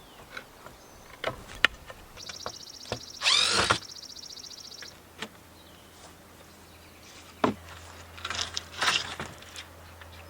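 Scattered knocks, clicks and clatter from a piece whose glass back has broken being taken apart by hand, with a loud creak about three and a half seconds in.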